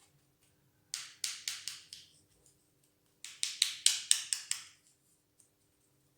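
A bristle brush loaded with gouache struck repeatedly against another brush to spatter paint: two quick runs of sharp taps, about five and then about seven.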